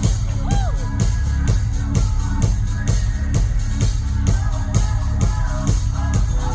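Live rock band playing an instrumental passage: a steady, fast drum beat over bass and electric guitar, with no singing.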